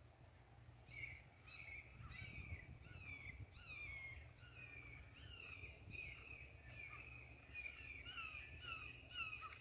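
Faint bird calls: a rapid run of short calls, each falling in pitch, starting about a second in and repeating over and over, over a low outdoor rumble.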